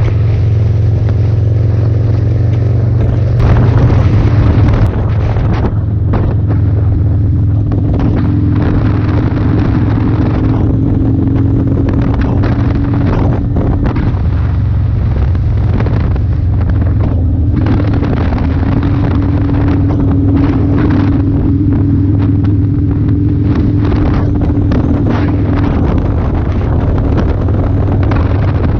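Motorcycle engine running at a steady cruise, with heavy wind buffeting on the microphone; a louder stretch about four seconds in.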